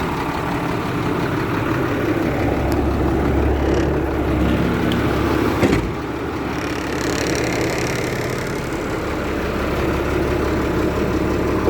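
Caterpillar 3126 inline-six diesel of a school bus idling steadily, with a single sharp click about halfway through.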